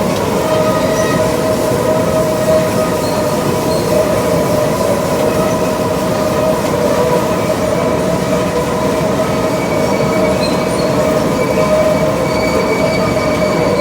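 Heavy farm machinery running steadily: a loud, even mechanical noise with several steady whining tones over it.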